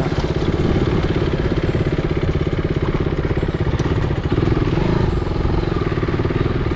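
KTM RC single-cylinder motorcycle engine running at low speed, a steady, even pulsing beat heard from the rider's seat as the bike rolls slowly behind another motorcycle.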